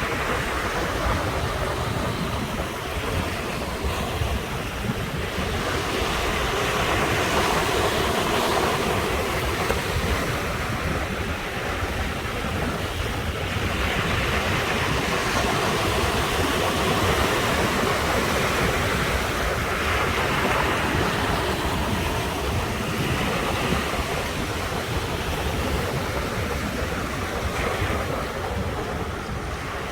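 Sea waves breaking on the shore, one after another, swelling and easing every few seconds over a continuous wash of surf, with wind buffeting the microphone as a low rumble.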